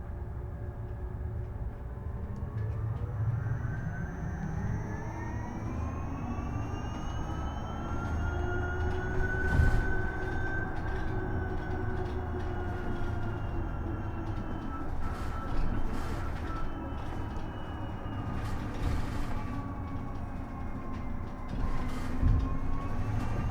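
Isuzu Erga EV electric bus heard on board: the electric drive's whine climbs in pitch as the bus gathers speed, eases off and dips, then climbs again near the end. Under it runs a steady road rumble, with a few sharp thumps.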